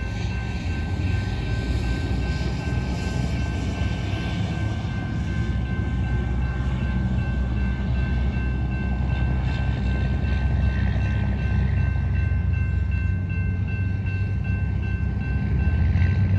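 BNSF manifest freight train passing close by: a steady low rumble that builds slightly, with a thin steady high-pitched whine over it.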